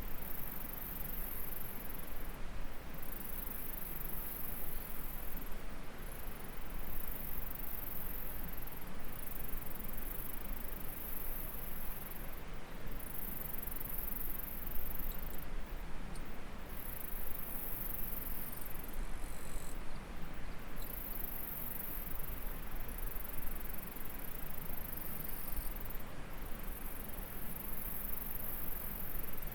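Stream water running steadily, with insects trilling high-pitched in repeated bouts of a few seconds each, breaking off briefly between bouts.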